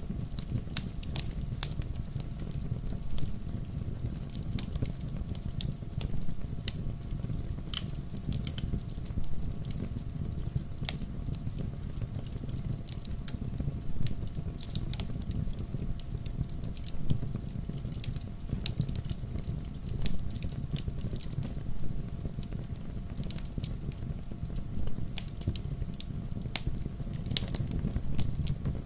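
Wood bonfire burning, with a steady low rumble of flame and frequent irregular sharp crackles and pops.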